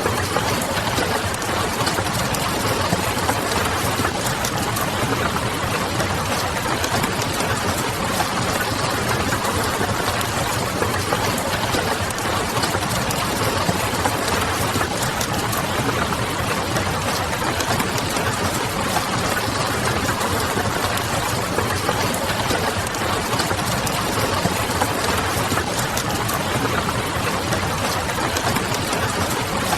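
Steady rain pattering, mixed with the light crackle of a wood fire and a low hum, all even and unchanging.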